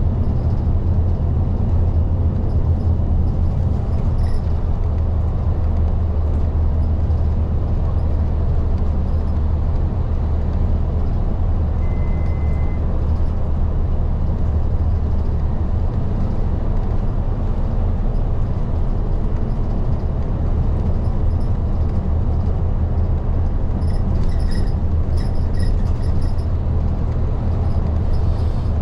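Interior sound of a Nishitetsu LDG-KV234Q3 city bus on the move: its diesel engine runs with a steady low hum under road noise, heard from the front of the cabin. A few light ticks come near the end.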